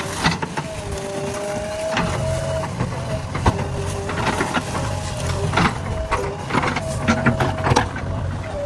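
JCB backhoe loader's diesel engine running under load, with a whine from the hydraulics that comes and goes as the controls are worked. Scattered knocks and clanks run through it.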